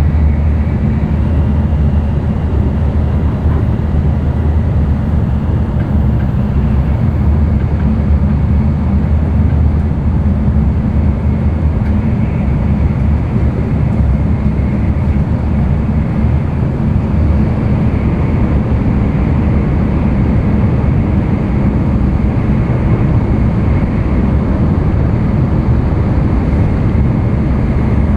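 Running noise heard inside the cabin of an N700-series Tokaido Shinkansen train at speed: a steady, loud, deep rumble of wheels on rail with a faint high tone above it.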